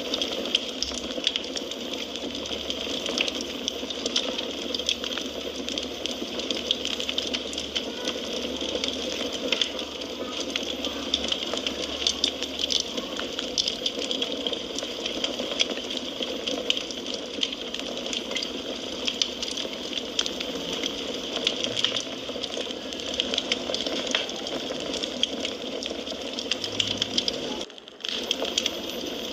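Wood fire crackling: a steady hiss full of many small, irregular pops and snaps. The sound drops out briefly near the end.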